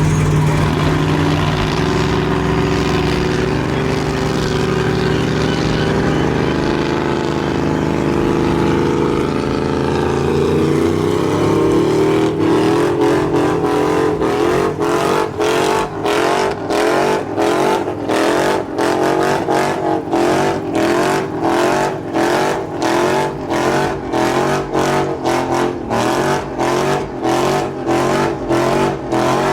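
Truck engine revving hard and held at high revs, then from about halfway through pulsing in an even rhythm that quickens toward the end.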